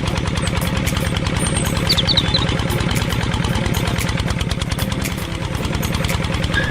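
Tractor engine running steadily with a rapid, even knocking beat.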